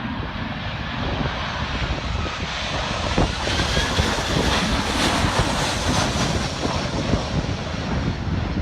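Airplane engines passing overhead on an aborted landing in strong wind, growing louder to a peak near the middle and then easing off slightly, with wind rumbling on the microphone.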